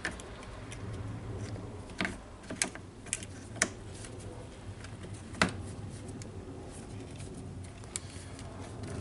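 Scattered sharp clicks and light knocks of small plastic parts and wires being handled and pressed into place in a cordless circular saw's housing, a few irregular clicks a second apart with the loudest about halfway through.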